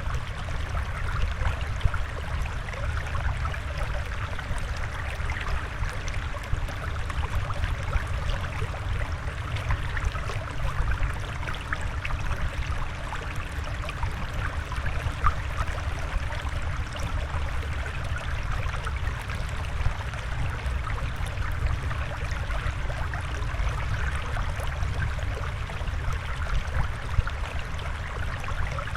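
Steady flowing, trickling water with a low rumble underneath and a fine bubbling crackle, unchanging throughout.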